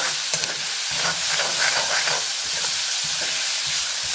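Chopped onions, shallots, ginger and garlic sizzling in hot coconut oil in a cast-iron kadai, stirred with a metal spatula that scrapes over the pan. A steady frying hiss runs underneath.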